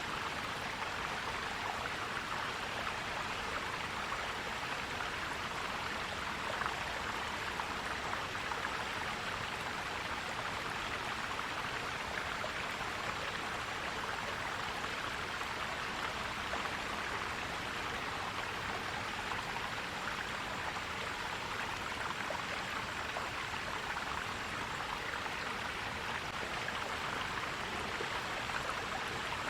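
A forest stream flowing and gurgling steadily.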